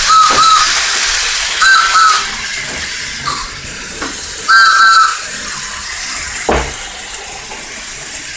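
Model steam train's sound effects: three short two-note whistle toots over a steady hiss of steam. A single knock about two-thirds through.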